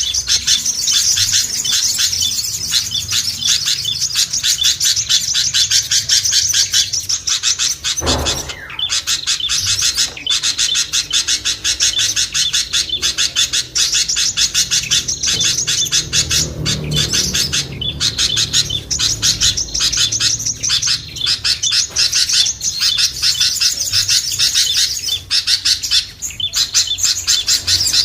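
A bird-lure recording of small songbirds calling in a dense, noisy chorus, with rapid high chirps repeating without pause. A single knock sounds about eight seconds in.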